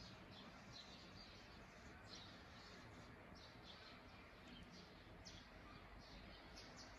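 Faint bird chirps, short and high, repeating every half second or so over a quiet outdoor hiss.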